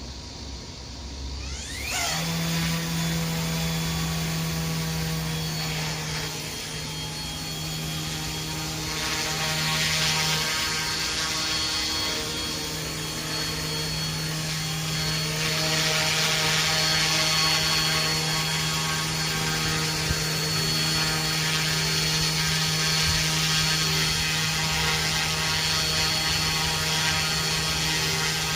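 Remote-control UH-1 model helicopter's motor and rotor spooling up with a quick rising whine about two seconds in, then running at a steady pitch with a high whine, swelling in loudness now and then.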